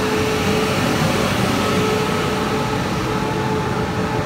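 Taiwan Railways E1000-series push-pull Tze-Chiang express pulling out of an underground station, its power car passing close by with steady running noise and a held humming tone.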